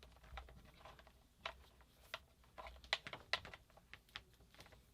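Irregular light clicks and taps of small tools and parts being handled on a workbench.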